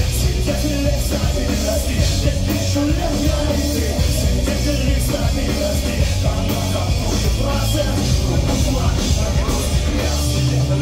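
Pop-punk band playing live and loud: drums, electric guitars and bass with a steady beat.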